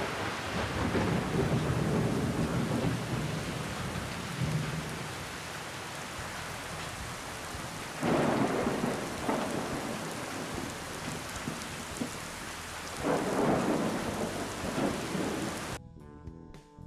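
Steady heavy rain with thunder rumbling through it, swelling three times: near the start, about 8 seconds in and about 13 seconds in. The rain starts and cuts off abruptly, and guitar music takes over near the end.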